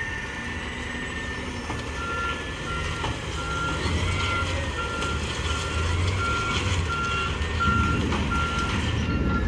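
Garbage truck's reverse alarm beeping steadily about twice a second, starting about two seconds in, over the low running of the truck's diesel engine.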